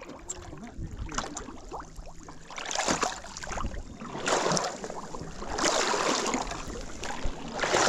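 Water sloshing and splashing in four rushes as a canoe is dragged by hand and waded through shallow swamp water over a soft, mucky bottom.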